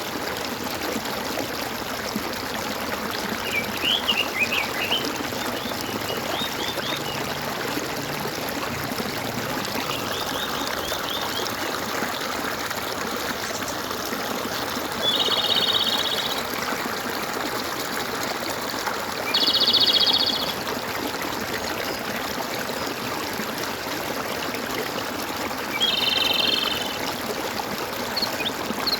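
Stream water gurgling and trickling steadily, with short bird chirps about four and eleven seconds in. In the second half come three louder buzzy trilled calls, each about a second long.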